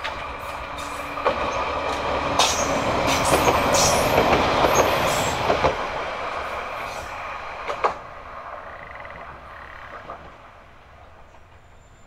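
Diesel railcar passing close by, its noise rising to a peak about four seconds in and then fading away, with sharp knocks as the wheels cross rail joints.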